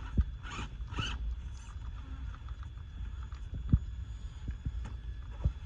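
Electric RC crawler trucks driving over a wet trail: a low rumble with scattered knocks of the chassis and tyres over the ground, the sharpest a little before four seconds in, and two brief scuffs or splashes near the start.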